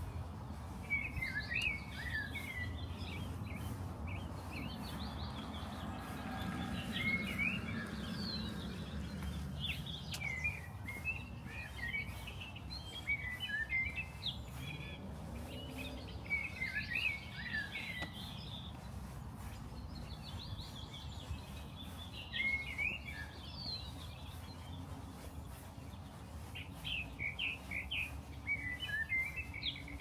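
Songbirds chirping in short, quick clusters every few seconds over a steady low outdoor rumble.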